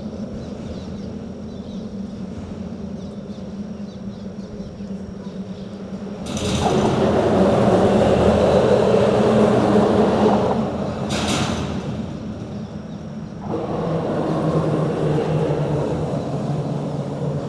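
Traffic sound at a bridge: a steady low hum, with a vehicle passing loudly from about six to ten seconds in, a brief sharp sound near eleven seconds, and another vehicle rising in from about thirteen and a half seconds.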